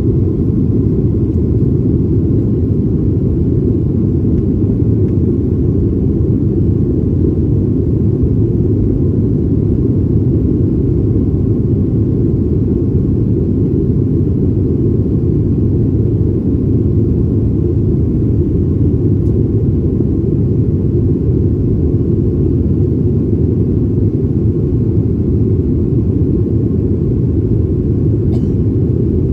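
Steady low rumble of a Boeing 737's jet engines and airflow, heard inside the passenger cabin.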